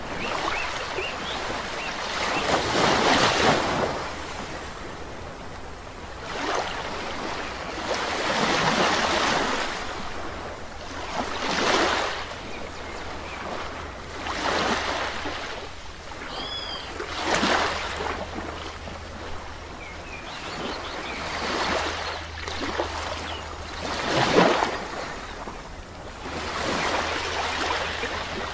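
Small waves breaking and washing up on a sandy shore, one surge every two to three seconds. A few faint bird chirps come through high above the surf.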